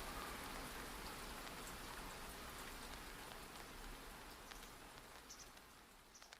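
Steady rain falling, an even hiss with a few faint drop ticks, fading out gradually toward the end.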